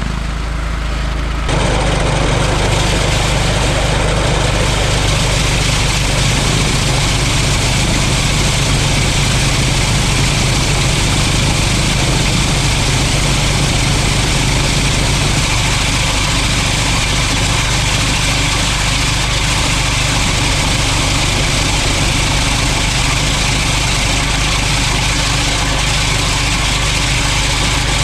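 John Deere 185 lawn tractor's 17-horsepower Kawasaki engine running steadily while driving a single-stage snowblower, with a steady hiss above the engine hum. It gets louder about a second and a half in and then holds even.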